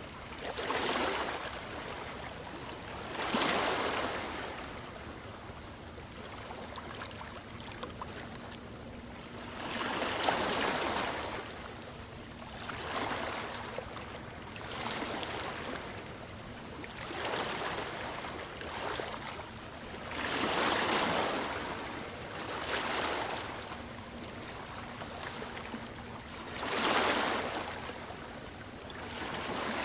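Ocean waves breaking and washing up the shore, a hiss that swells and fades every few seconds, with bigger breakers about a third of the way in and near the end.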